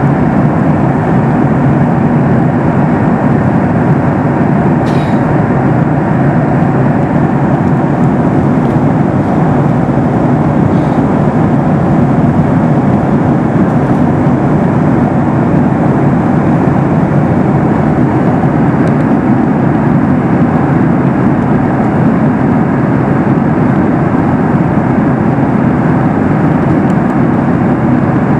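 Boeing 737 MAX 8 cabin noise in flight: a steady, loud roar of engine and airflow heard from a passenger seat. There is a faint click about five seconds in.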